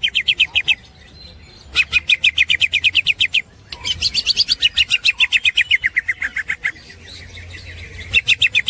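Green leafbird (cucak hijau) singing its rapid 'ngekek' chatter: bursts of sharp, evenly repeated notes, about ten a second, in four bouts. The longest bout, in the middle, slides down in pitch toward its end.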